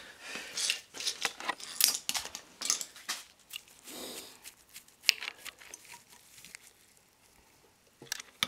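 Scattered clicks and clinks of metal hand tools such as sockets and wrenches being handled, busiest in the first few seconds and then thinning out, with one sharp click near the end.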